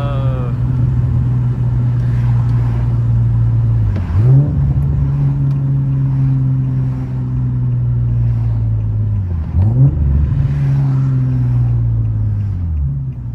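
Infiniti G37's 3.7-litre V6 running while driving. Its note slowly eases down, then dips and swings sharply up twice, about four seconds and nine and a half seconds in.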